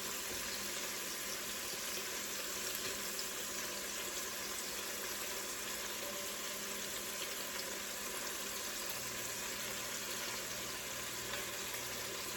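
Meatballs sizzling steadily as they fry and brown in a pan.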